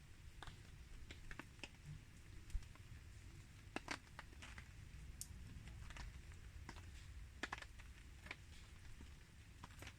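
Wood campfire crackling: quiet, irregular sharp pops and snaps, a few a second, over a low steady rumble.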